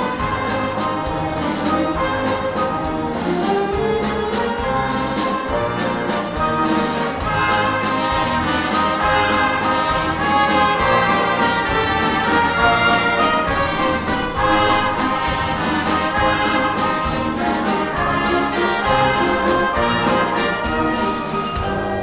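Student variety-symphony orchestra playing, with brass carrying the melody over a steady, regular beat.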